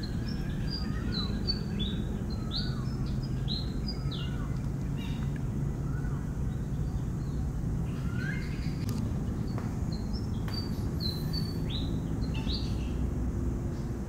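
Birds calling: two runs of short high chirps, one in the first few seconds and another near the end, with a few lower chirps between, over a steady low rumble.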